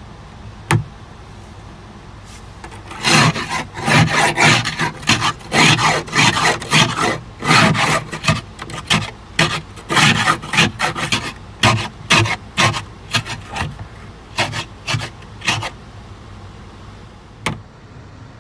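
Plastic ice scraper scraping freezing-rain ice off a car windshield in repeated rasping strokes, about two a second, which begin a few seconds in and thin out before stopping near the end.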